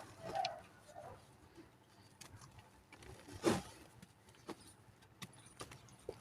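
Dry mud cake crumbling, with scattered small cracks and crackles and one louder crunch about halfway.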